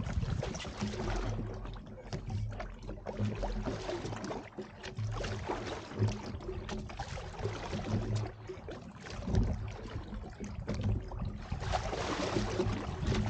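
Irregular knocks, clicks and rustles of fishing gear being handled aboard a small boat, over a low background of water and wind noise.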